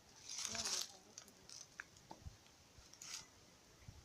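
Cooking pot and utensils being handled: a short scraping burst in the first second, then a few light clicks and knocks and another brief scrape about three seconds in.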